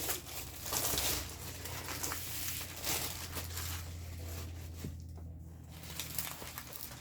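Plastic packaging crinkling and rustling as it is handled, with a few louder rustles near the start and about three seconds in, over a steady low hum.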